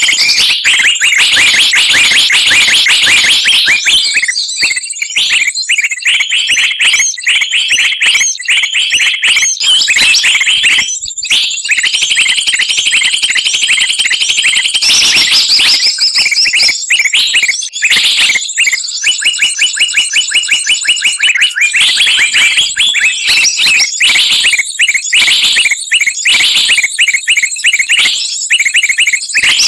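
A dense, noisy chorus of many small songbirds calling over one another, with rapid high-pitched chirps and trills that keep going throughout: a bird-lure call recording.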